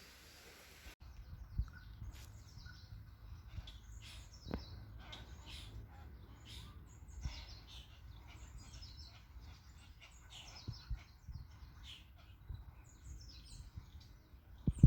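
Many small birds chirping and twittering in quick short calls, over a low rumble with a few brief knocks, the loudest near the end.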